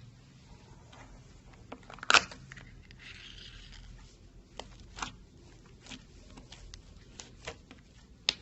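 Slime being handled and stretched: scattered sticky clicks and pops, a sharper snap about two seconds in, and a brief soft tearing rustle around three seconds.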